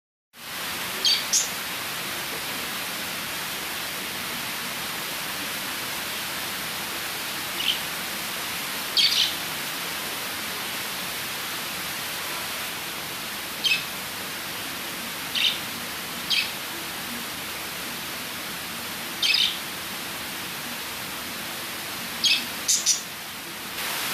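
Pet lovebirds giving short, high chirps every few seconds, some in quick pairs, over a steady hiss.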